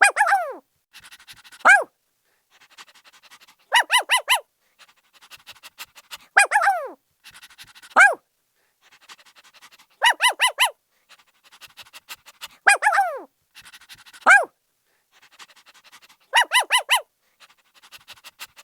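Puppy yapping in short, high-pitched barks: a quick run of about four yips, then a couple of yips that fall in pitch, then a single yip. The pattern repeats about every six seconds, with quiet panting in between.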